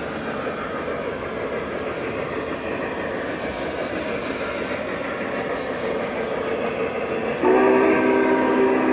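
O gauge model train running on its track with a steady rumble; about seven seconds in, its horn sounds as a loud, steady chord of several notes that holds on.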